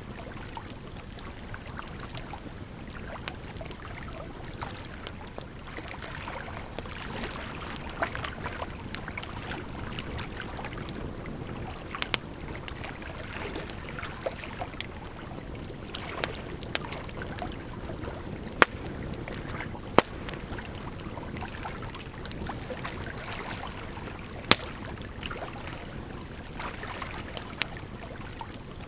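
Firewood burning with scattered crackles and a few sharp, loud pops, over a steady rush of running water.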